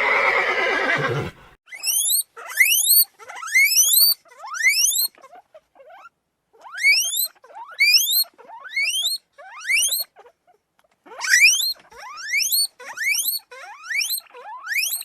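Animal calls: a loud call of about a second and a half at the start, then a run of short, squeaky rising calls, about two a second, coming in bursts with brief pauses.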